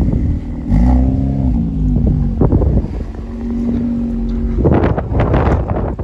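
2018 VW Golf R's turbocharged four-cylinder engine running through a new Borla valved cat-back exhaust with a resonator: a quick rev that rises and falls about a second in, then a steady hold of higher revs, with a loud rushing noise near the end.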